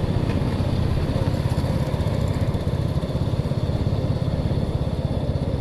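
Motorcycle engine running steadily while riding, with a fast, even pulse.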